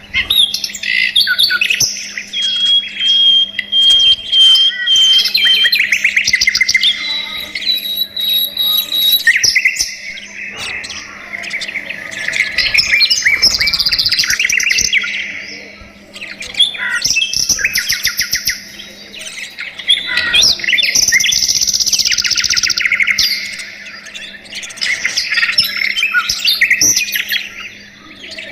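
A flock of budgerigars chirping and warbling, many overlapping calls in waves that come and go with short lulls. A faint steady low hum lies underneath.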